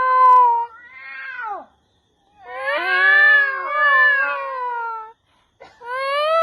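A man imitating a cat, with long drawn-out meows and caterwauls: one ending just under a second in, a short falling call, a long wavering meow of about two and a half seconds, and another starting near the end.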